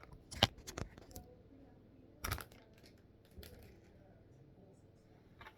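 Hard plastic Lego pieces being handled and their joints moved, giving a few sharp clicks: the loudest about half a second in and another just after two seconds, with quieter ticks between.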